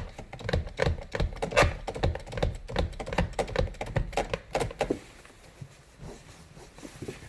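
Rapid, even clicking, about four to five clicks a second, from the driver's seat height-adjust ratchet lever being pumped to lower the seat; the clicking stops about five seconds in.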